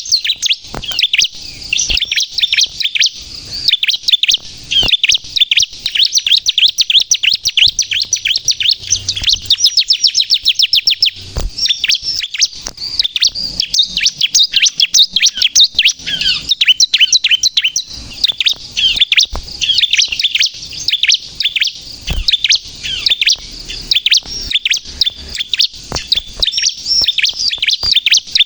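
Bar-winged prinia (ciblek, 'kristal' colour form) singing persistently: a rapid, unbroken stream of sharp, high chirps and trills, with a fast, even trill about eight seconds in.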